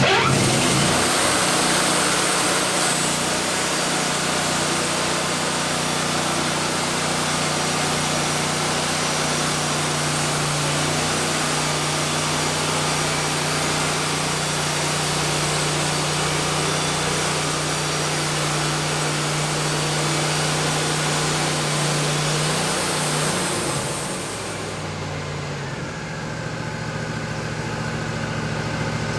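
Woodmizer LT40 band sawmill running, its engine humming steadily under load while the band blade saws through a cedar log with a constant hiss. About 24 seconds in the sawing hiss stops and the engine pitch shifts and settles lower as the cut ends.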